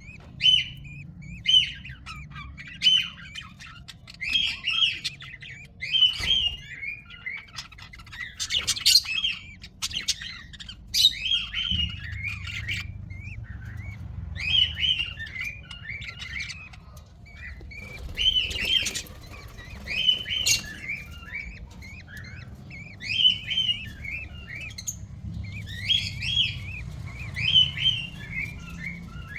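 Budgerigar chicks calling: short bursts of rapid, squawky chirps, repeating about once a second.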